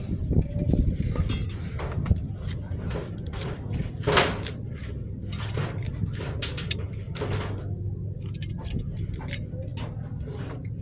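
Metal tools and clutch parts clinking and knocking irregularly during motorcycle clutch work, over a steady low rumble; the loudest knock comes about four seconds in.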